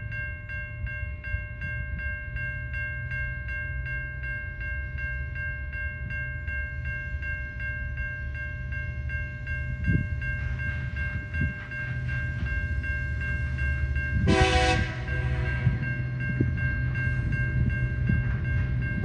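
Level crossing warning bell ringing in a fast steady pulse over the low rumble of approaching TasRail TR class diesel-electric locomotives. A short multi-note locomotive horn blast sounds about 14 seconds in, and another begins at the very end.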